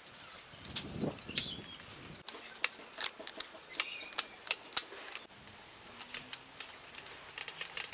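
Irregular light clicks and metallic clinks from small metal parts and hand tools being handled; a few of the clinks ring briefly.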